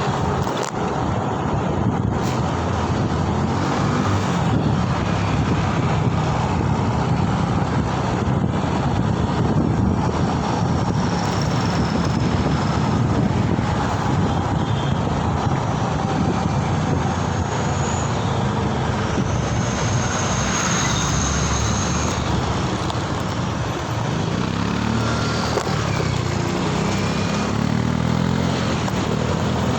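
Steady road and traffic noise heard while riding a Mober S10 through city streets, with engine and tyre noise from the ride and surrounding vehicles. A faint high whine comes and goes around the middle.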